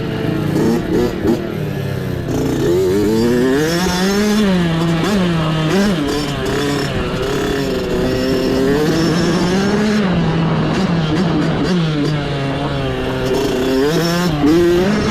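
Mini bike's small engine racing off-road, its pitch rising and falling over and over as the throttle is opened and closed.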